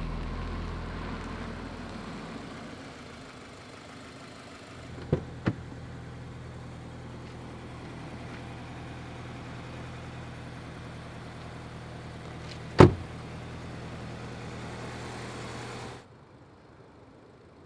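A steady low hum like a vehicle engine idling, with two light clicks about five seconds in and one sharp loud bang near the end; the hum cuts off suddenly just before the end. Fading music is heard at the start.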